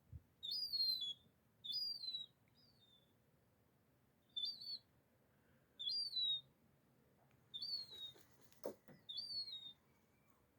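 Young gull's high, thin begging whistles, repeated about eight times, each a short call that rises then falls. A dull knock sounds once, near the end.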